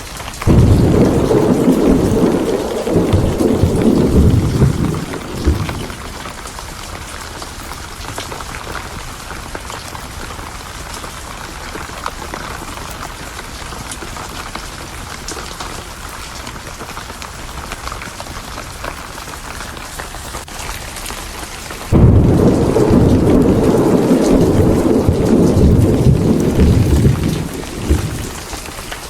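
Steady heavy rain with two claps of thunder. The first begins within the first second and rumbles for about five seconds; the second breaks in suddenly about three-quarters of the way through and rolls for about six seconds.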